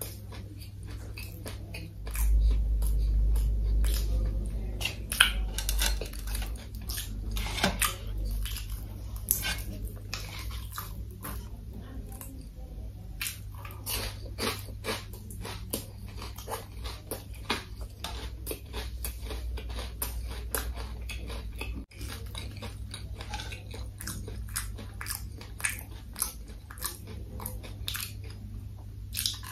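Close-miked chewing and biting of crispy fried food, with many small crunches and wet mouth clicks at an irregular pace. A deep low rumble comes in about two seconds in and lasts several seconds, over a steady low hum.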